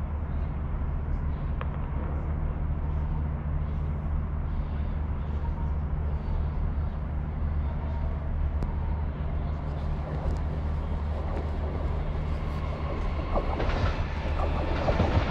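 A steady low hum, then an approaching train growing louder over the last two seconds or so, with rail clicks and a horn note starting near the end.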